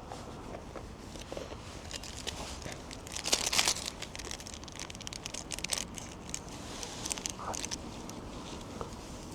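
Plastic packaging being crinkled and rustled by hand in a run of short rustles, with a louder burst of crinkling about three and a half seconds in.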